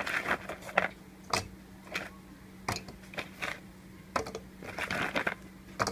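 Oreo cookies being dropped into a blender jar: irregular clicks and knocks, about a dozen of them, with short rustling between, over a faint steady hum.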